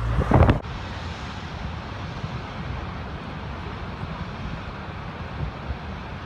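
Steady rush of heavy rain with a low rumble underneath; wind buffets the microphone loudly for about the first half-second.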